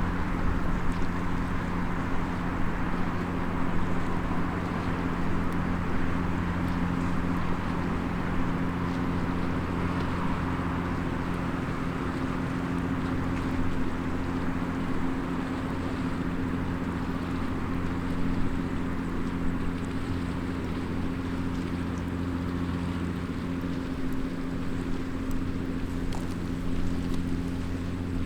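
Steady low mechanical drone, like a distant engine, running without change, with a few faint crackles from a small wood fire.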